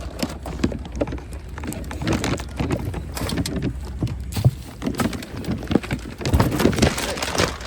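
Wind rumbling on a handheld phone microphone, with a steady run of knocks, clicks and rustles from handling.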